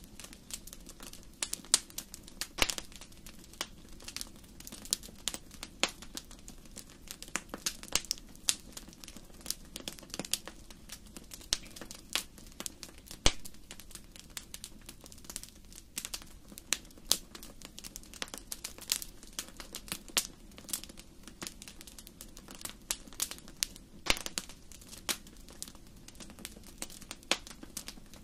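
Fire in a fireplace crackling: irregular sharp pops and snaps, a few much louder than the rest, over a faint steady low hum.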